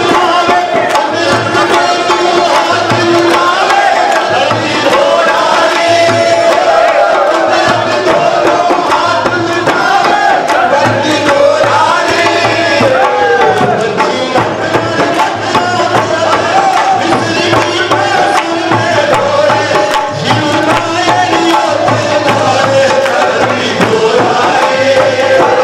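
Hindi devotional Shyam bhajan sung over a steady tabla-style drum beat.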